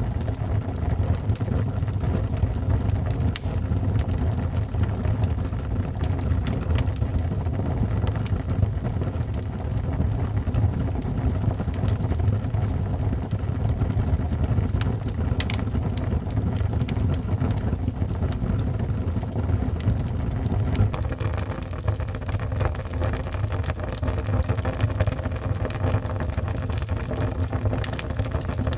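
Wood fire burning in a fireplace: a steady low rumble of the flames with scattered small crackles and pops of the logs.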